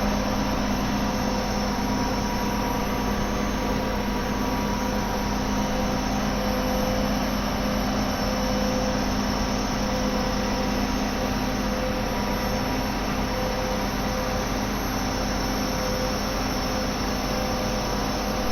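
Truck-mounted concrete mixer's engine and mixing machinery running at a steady pace, a constant drone with a steady hum.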